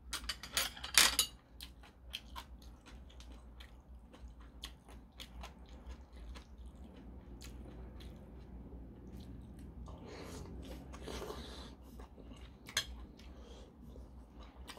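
A person eating noodles and dumplings: chewing and mouth sounds with scattered sharp clicks, the loudest a quick cluster of sharp sounds about a second in.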